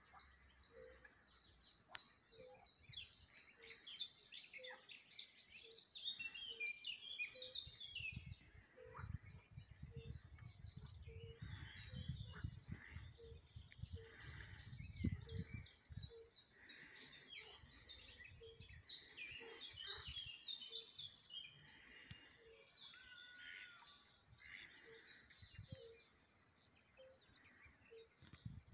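Faint songbirds singing and chirping, several at once, with a short low note repeating about once a second. A low rumble comes in for several seconds in the middle.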